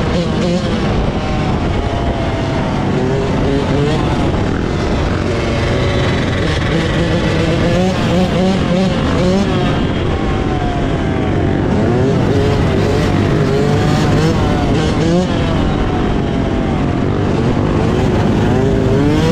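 Small off-road vehicle engines running and revving, with several overlapping engine notes rising and falling in pitch throughout.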